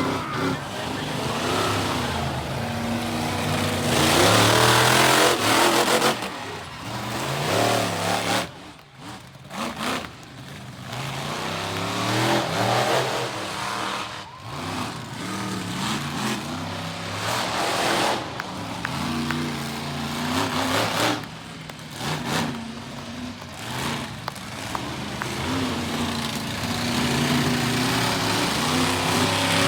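Monster truck engine revving hard again and again, its pitch climbing and falling as the throttle is opened and closed, with a short lull about eight to nine seconds in.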